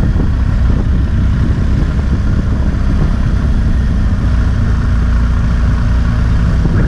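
Motorcycle engine running steadily, a loud low rumble.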